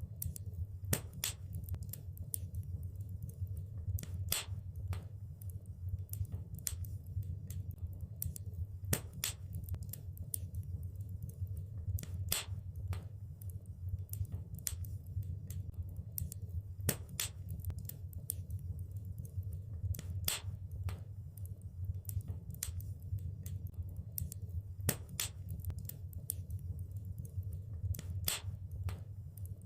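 Wood fire crackling: irregular sharp snaps and pops, several a second with a few louder ones, over a steady low rumble of burning.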